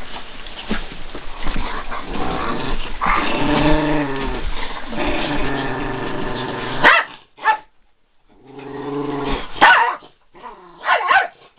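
Dogs growling in play while wrestling, with a few barks. The growling runs on for about seven seconds, stops suddenly, then comes back as a few shorter growls and yips.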